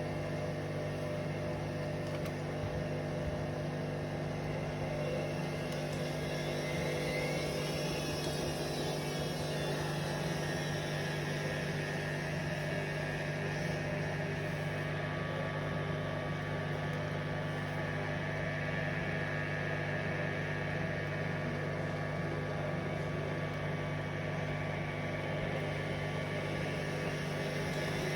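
Hoover Vision Dynamic washing machine on a spin cycle, its motor and drum running with a steady hum and a whine that glides in pitch about a third of the way in, getting slightly louder as the drum picks up speed after balancing the load.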